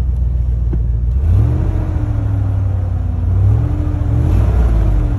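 Chevy Silverado's 5.3-litre LS V8 running steadily just after being started without the key, with the revs rising briefly about a second in and again near the end before settling back.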